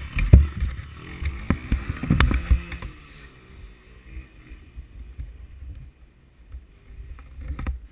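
Muffled low rumble with a few sharp knocks, heard through a closed camera housing.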